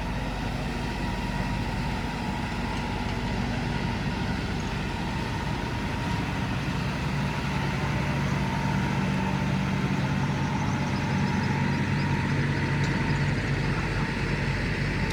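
An engine running steadily with a low hum, growing slightly louder from about halfway through.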